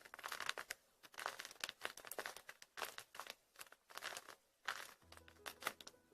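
Foam squishy toys squeezed and kneaded close to the microphone: a quick run of soft crackling, crinkling squeezes. Background music comes back in near the end.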